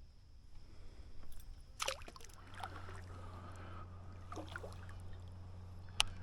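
Water splashing and dripping around a kayak, a few short splashes. About two seconds in a steady low hum comes in, and a sharp click sounds near the end.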